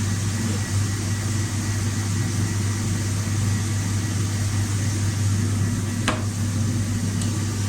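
Steady machine hum with a low drone and background hiss, with a single sharp click about six seconds in.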